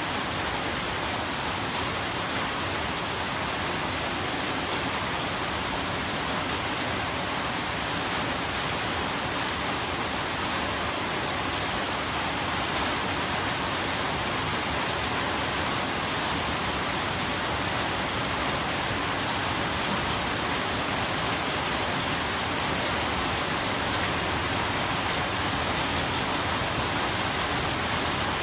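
Steady rain falling on a surface, an even hiss of drops without a break.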